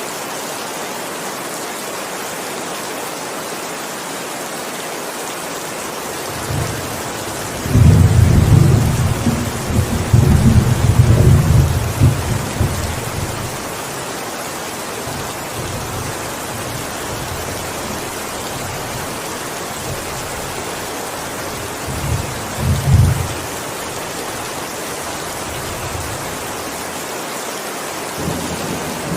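Steady heavy rain with thunder: a long rolling rumble of thunder about a quarter of the way in, a shorter one about two-thirds through, and another starting right at the end.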